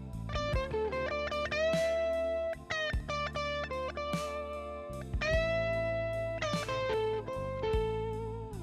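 Electric guitar playing a slow minor blues lead with crying string bends and held notes, over a backing of steady low bass notes and regular drum hits.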